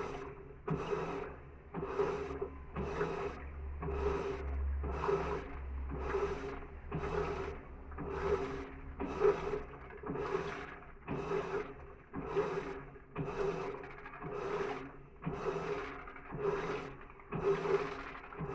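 Electrolux washing machine agitating a full, high-water load of clothes: a regular swish of water and laundry roughly every three quarters of a second as the agitator reverses, over a low motor hum.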